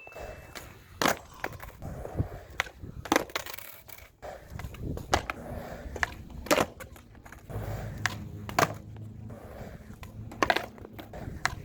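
Skateboard being popped and slapping down on pavement: sharp cracks every second or two, with wheels rolling on the ground in the second half.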